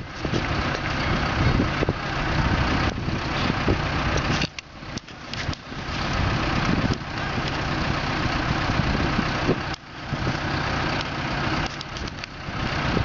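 A vehicle engine running steadily in the open air, with brief dips in level about four and a half seconds in and again near ten seconds.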